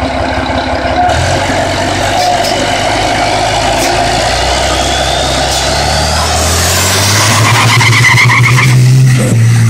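Truck engine running loudly, its low note stepping up in pitch about a second in and again near the end, with a thin rising whistle climbing through the middle.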